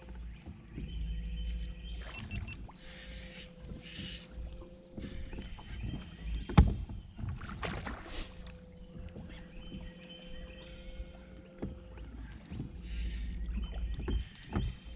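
Sounds of a small fishing boat drifting in river current: a steady motor hum that switches on and off, water and handling clatter against the hull, and one sharp knock about six and a half seconds in.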